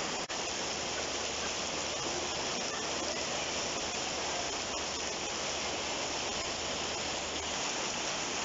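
Heavy rain falling steadily: a dense, even hiss of rain on the street, with a brief dropout just after the start.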